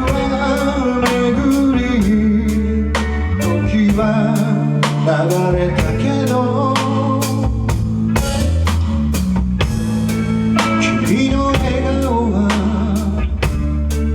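Rock band playing live: a drum kit keeps a steady beat under bass and electric guitar, with a lead line bending up and down in pitch.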